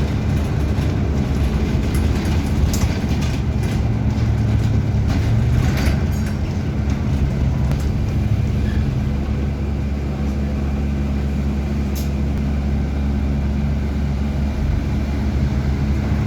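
Steady engine drone and road noise heard inside the cabin of a moving bus, with a few light rattles and clicks.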